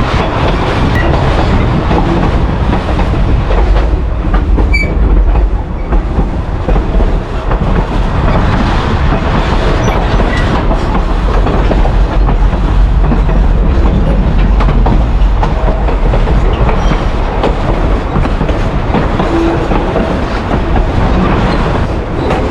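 Narrow-gauge railroad passenger car rolling along the track, heard from aboard: a steady, loud rumble and clatter of wheels over rail joints.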